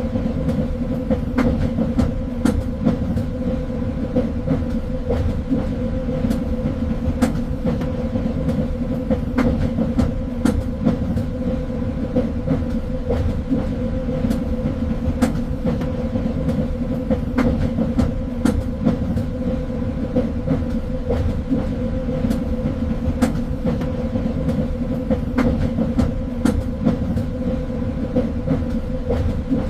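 A train running steadily along the track: a constant low rumble with a steady hum, and irregular sharp clicks and knocks from the wheels on the rails.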